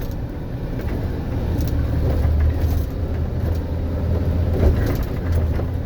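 Steady low rumble of engine and road noise heard from inside a moving vehicle's cabin, with a few faint brief knocks.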